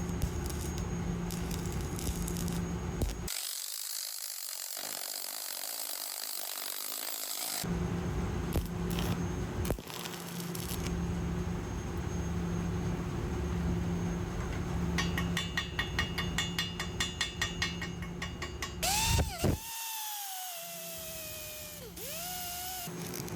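Welding repair work on a generator engine turbocharger's turbine-side casing: noisy arc and power-tool sounds in several cut sections. For a few seconds past the middle there is a rapid regular ticking of about five a second, and near the end a whining tone glides down and back up.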